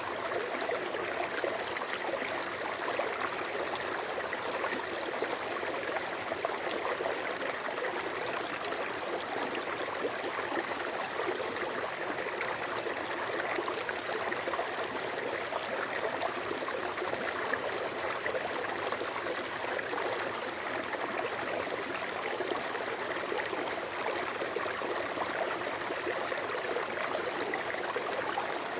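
Water in a stream flowing steadily, an even rush with no change or separate events.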